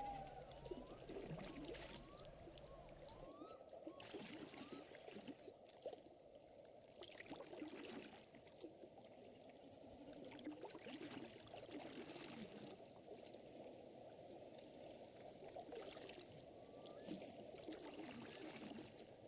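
Faint lake water lapping and trickling, with soft splashes.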